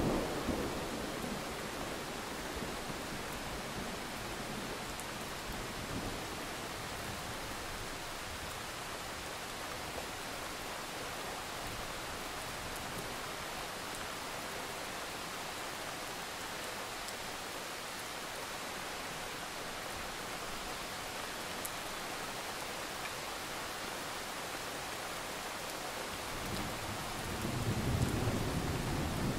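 Steady rain falling, an even hiss. A low rumble swells about three seconds before the end.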